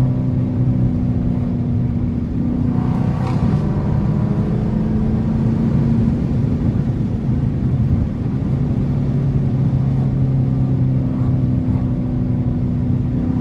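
Dodge R/T's 5.7 HEMI V8 engine running at a steady cruise with a low drone. Its pitch shifts slightly a couple of times.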